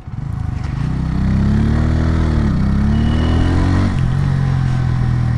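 Bajaj Pulsar N150 single-cylinder engine under way: its pitch climbs, drops at a gear change, climbs again, then settles lower and steady as the throttle closes.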